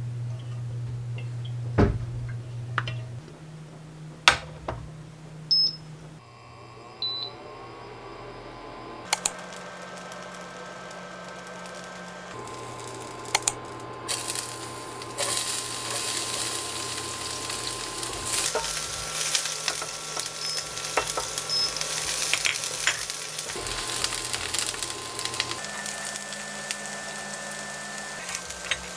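A few sharp knocks and clicks of kitchen utensils. Then, from about halfway, chopped onion and garlic sizzle in a hot frying pan, with a silicone spatula scraping and tapping as they are stirred.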